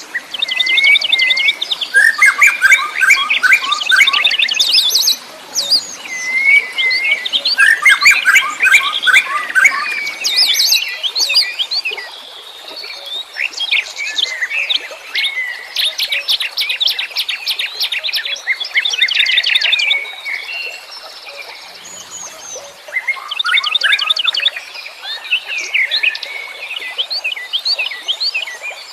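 Several wild songbirds singing in overlapping phrases: rapid high trills, quick chirps and short falling whistles, in bursts of a few seconds with brief lulls between them.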